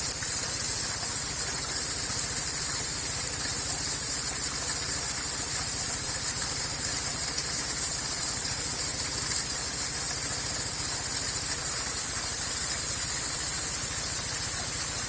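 Steady rushing of a waterfall with no let-up, over a low rumble, with a constant high-pitched band of sound above it.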